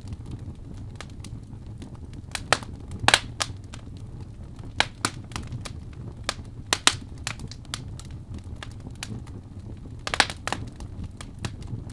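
Fire in a fireplace crackling, with irregular sharp pops over a steady low rumble of the flames. The loudest pops come about three seconds in and about ten seconds in.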